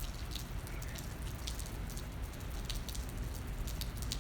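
Rain falling, with individual drops ticking sharply and irregularly close by over a steady hiss and a low rumble.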